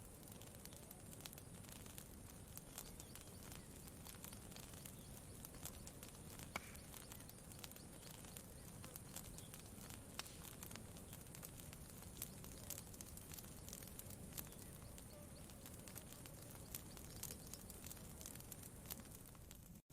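Faint campfire crackling: scattered small pops and snaps over a soft steady hiss, with one sharper pop about a third of the way in. The sound drops out briefly near the end.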